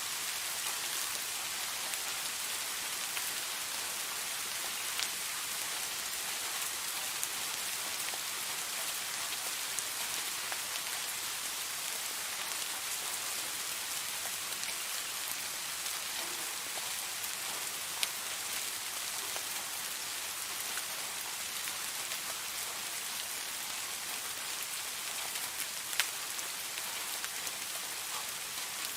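Steady rain falling, an even hiss with a few sharper single drop taps now and then.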